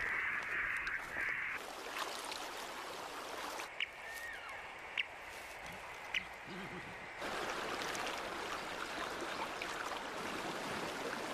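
Outdoor riverside ambience: steady rushing, like running water, with a few short bird calls scattered through it.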